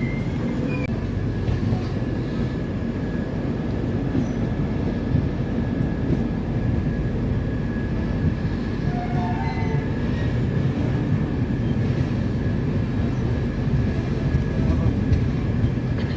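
Train running along the track: a steady low rumble with a faint steady whine above it.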